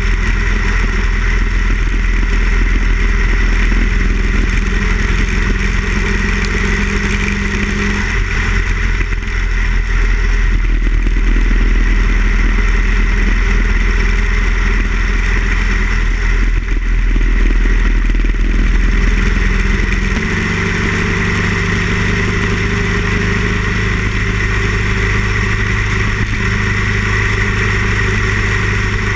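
Harley-Davidson Ironhead Sportster XL1000's air-cooled V-twin engine running under way while riding. The engine note changes pitch abruptly about eight seconds in and again about twenty seconds in.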